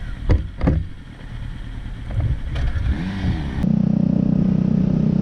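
Two short knocks, then after an abrupt change a motorcycle engine running steadily with an even low pulse.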